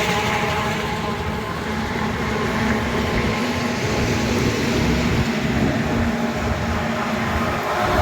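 Heavy road traffic passing on a highway: a large vehicle's engine gives a steady low rumble over tyre and road noise.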